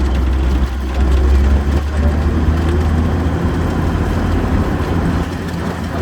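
Diamond T half-track driving, heard from aboard: a steady, loud low engine rumble that eases slightly about two seconds in, with a faint hum above it.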